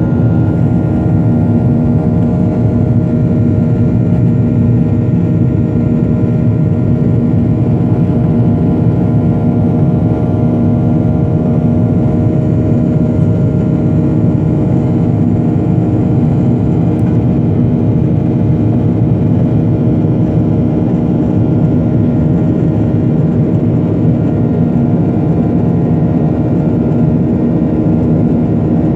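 Airliner cabin noise: the steady drone of the jet engines and airflow heard inside the passenger cabin, loud and unchanging, with several steady hum tones in it.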